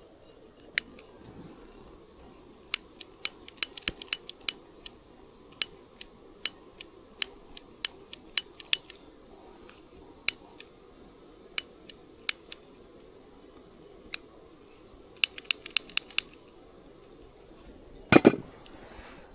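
Campfire wood crackling: many sharp, irregular snaps and pops, with a louder double clatter near the end.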